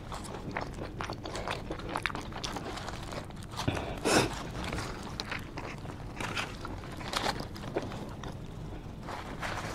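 Close-up mouth sounds of a person chewing a cheesesteak sandwich: a run of small wet smacks and clicks, with one louder crackle about four seconds in.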